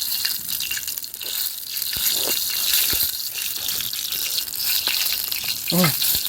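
Chicken sizzling on a grill over a campfire: a steady hiss with scattered pops and crackles. A short grunt or murmur near the end.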